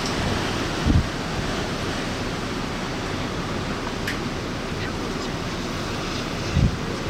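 Hurricane-force wind blowing steadily, with two heavy gusts buffeting the microphone, one about a second in and one near the end.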